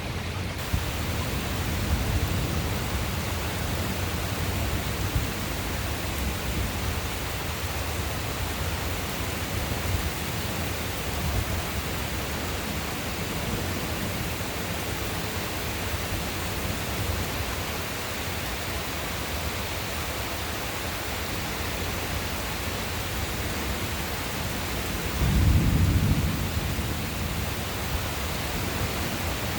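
Steady rain hiss with thunder rumbling low and rolling on and off, and a louder thunderclap rumble about 25 seconds in that lasts a second or so.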